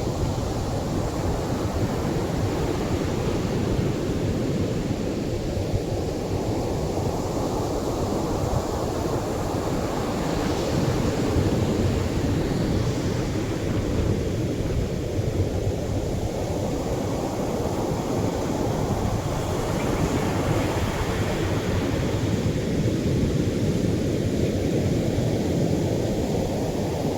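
Atlantic surf washing onto a beach in heavier waves: a continuous low rushing, with breakers cresting brighter about ten seconds in and again about twenty seconds in.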